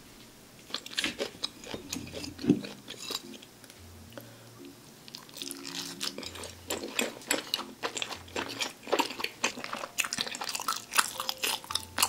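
Close-miked chewing of a chewy steamed dumpling: mouth clicks and wet chewing noises, sparse at first, then a dense, quick run from about halfway through.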